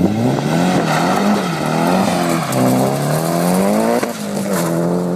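Nissan 200SX (S14) launching hard from a standing start and accelerating away. The engine note climbs and drops back at each gear change, about three shifts, about one, two and a half, and four seconds in.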